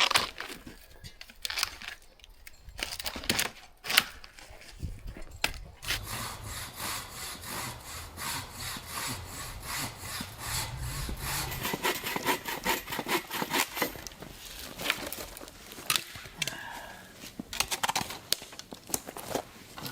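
Wood being sawn with a hand saw, stroke after stroke, the strokes coming faster and denser through the middle and more spaced out near the end.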